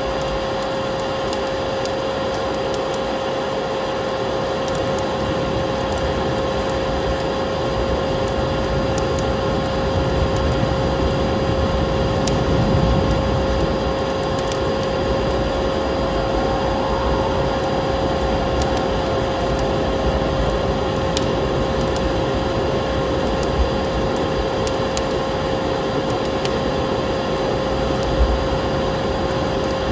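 Wood fire crackling, with scattered small pops over a steady rushing noise and a constant tone.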